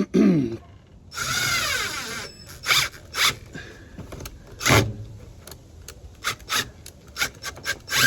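Hand work with tools on the truck's interior parts: a click at the start, a rasping whir lasting about a second, then a run of short sharp clicks and knocks.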